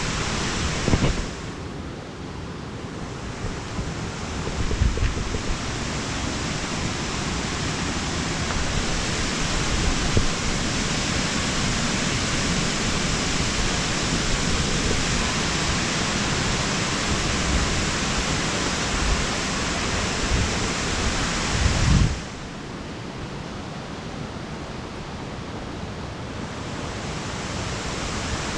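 Steady rushing of a mountain waterfall and its cascades, with a few low knocks of the camera being handled during the climb down. Twice the rush turns suddenly duller and quieter for a few seconds, then comes back.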